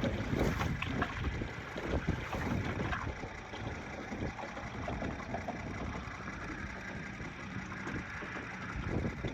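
Wind buffeting the microphone in uneven gusts, with water slapping against an aluminum jon boat's hull.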